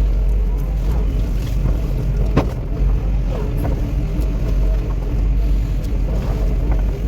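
Cat 316E excavator's diesel engine running steadily under work, with a sharp clank about two and a half seconds in and a few lighter knocks.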